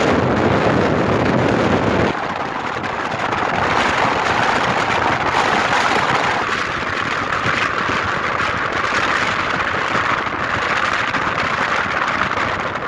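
Strong mountain-summit wind rushing and buffeting the microphone, a loud steady roar of noise; the deep rumble drops away abruptly about two seconds in.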